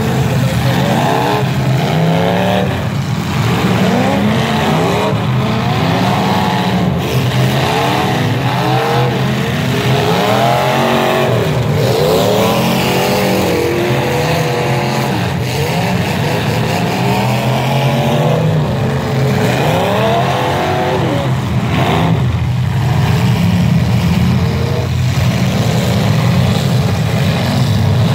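Several car engines revving hard at once, their pitch climbing and falling over and over as the cars accelerate and back off.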